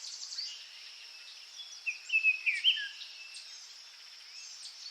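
Background birdsong: many small birds chirping over a steady high hiss, with a nearer bird giving a quick run of louder calls about two seconds in.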